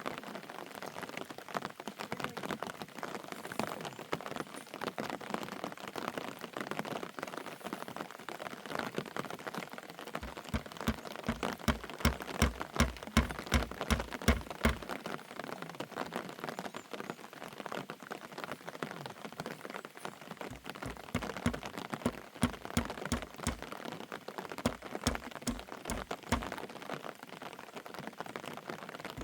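Steady rain falling on surfaces, a dense scatter of close drop ticks. Twice a run of regular low thumps, about three a second, joins it: once about a third of the way in and again after two-thirds.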